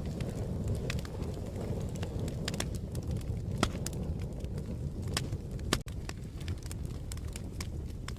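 Fire crackling: a steady low rumble of burning with scattered sharp pops and snaps, the loudest about three and a half seconds in. The sound drops out for a split second just before six seconds.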